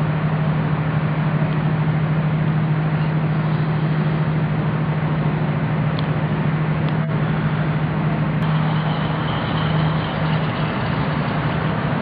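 Heavy machinery engine running at a steady speed, a deep even hum with no change in pitch.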